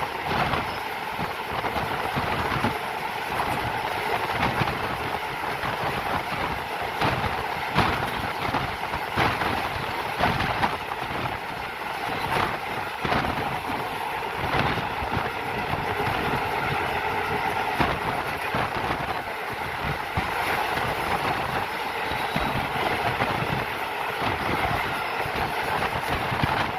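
Moving passenger train: a steady running rumble with the wheels clacking irregularly over rail joints.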